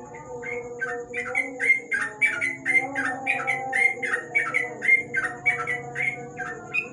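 Yellow-vented bulbul (trucuk) singing its rapid 'ropel' song: a fast string of short, downward-sweeping whistled notes, about three a second. A steady thin high whine and faint low tones run underneath.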